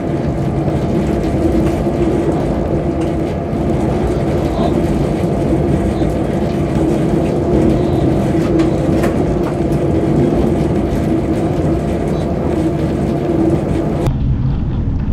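Train running along the track, heard from inside the driver's cab: a steady rumble with a constant hum. About a second before the end the hum drops out and the sound turns duller.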